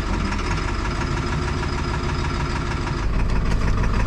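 Ford Super Duty tow truck's diesel engine idling just after a cold start, a steady running sound with a light knock. About three seconds in it gets louder and deeper.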